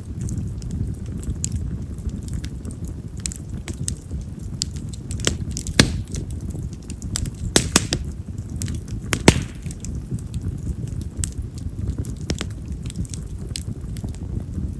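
Split wild cherry (yamazakura) firewood burning in an open fire: a steady low rush of flame with frequent sharp crackles and pops, a few louder snaps in the middle.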